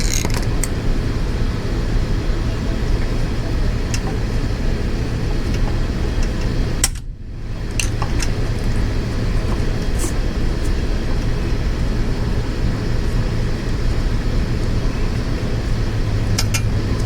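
Steady low background rumble with scattered small clicks and taps of motorcycle parts and wiring being handled. The sound dips out briefly about seven seconds in.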